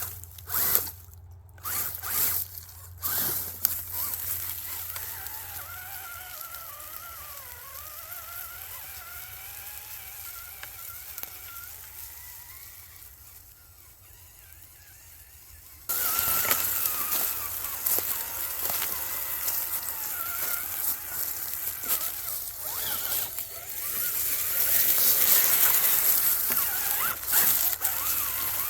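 Whine of a small electric RC crawler motor and its gears, rising and falling in pitch with the throttle, with a few clicks in the first seconds. About sixteen seconds in, the sound turns suddenly louder and rougher as the truck drives on.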